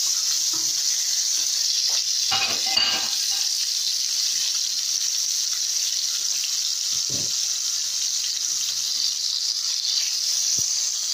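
Raw chicken mince sizzling steadily in hot oil and butter in a pot, as a wooden spoon breaks it up, with a brief clatter of the spoon about two seconds in and a few softer knocks later.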